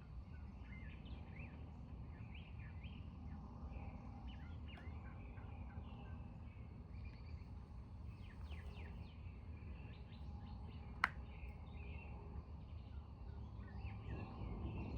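Birds chirping and calling repeatedly over a steady low background rumble that swells near the end, with a single sharp click about eleven seconds in.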